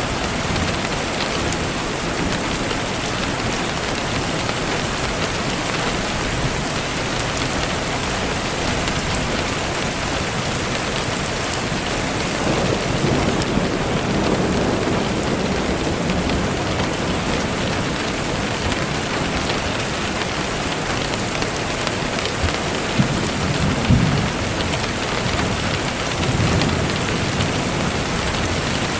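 Steady rain falling, with low rumbles of distant thunder swelling about halfway through and again near the end.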